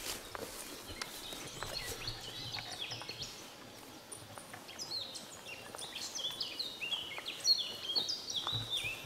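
A small songbird singing runs of short chirps that step down in pitch, strongest in the second half. Under it are light footsteps and rustling on the forest floor.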